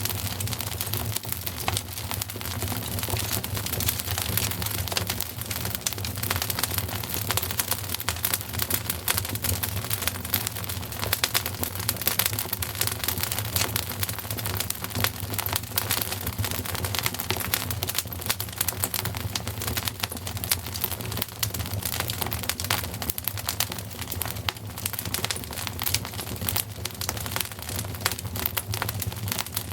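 Wood fire crackling in a fireplace: a dense, continuous run of small sharp pops and snaps over a steady low hum.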